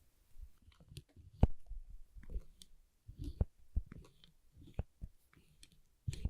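A black spring clip being pressed and released by hand close to the microphone: irregular sharp clicks mixed with soft handling taps, the loudest click about a second and a half in.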